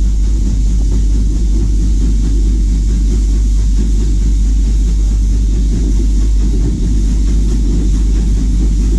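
Steady, loud low rumble of a railway train in motion, heard from on board.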